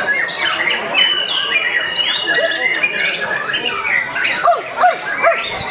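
White-rumped shamas (murai batu) singing over one another in competition: rapid varied whistles, chirps and sweeping notes, with one long held whistle about a second in and a run of quick falling notes near the end.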